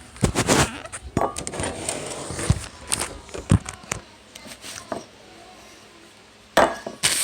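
Kitchen clatter: dishes, pans and utensils clinking and knocking as they are handled and set down, in a busy run of about four seconds, then a short lull and more knocks near the end.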